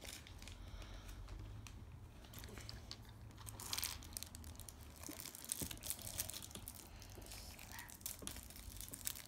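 Faint crinkling and rustling of handled packaging, with scattered small clicks and taps, loudest about three and a half seconds in.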